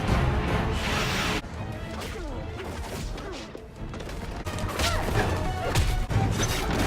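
Crashes and blows over background music, the first stretch dense and noisy and cutting off suddenly about a second and a half in, then a series of sharp hits later on.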